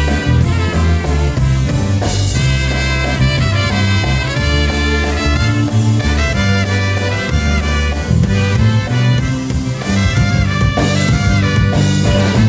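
Live polka band playing the instrumental part of an oberek, with brass carrying the tune over a steady bass and drum beat.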